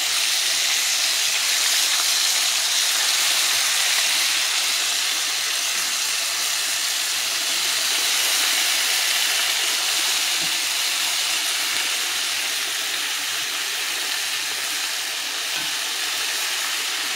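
Flour-breaded cubed steaks frying in hot oil in a cast-iron skillet: a steady sizzle.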